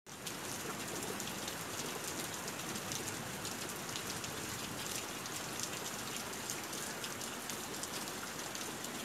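Heavy rain falling steadily onto a puddle on the ground, a dense, even spatter of drops hitting standing water.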